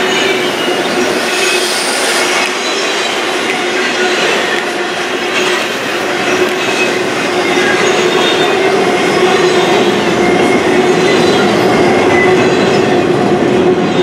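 Double-stack container well cars of a freight train rolling past on the rails: a steady rumble and clatter of steel wheels on track, with a steady squeal from the wheels that grows stronger in the second half.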